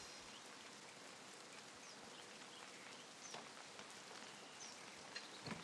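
Near silence: faint ambient hiss with a few short, faint high chirps scattered through it.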